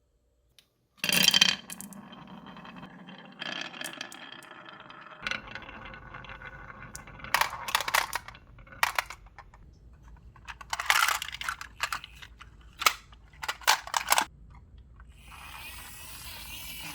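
Marbles running down a rain-gutter and wooden-rail marble run: a loud clack about a second in, then a steady rolling rumble broken by bursts of sharp clicking and clacking as they knock together and drop, and a hissing rush near the end.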